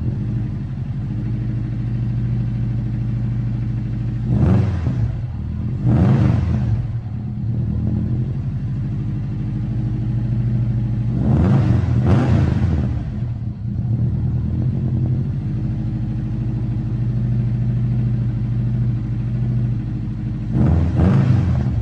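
Turbocharged Subaru Impreza WRX STI flat-four engine idling with a steady note, with short throttle blips about four and six seconds in, a longer rev around twelve seconds, and another near the end.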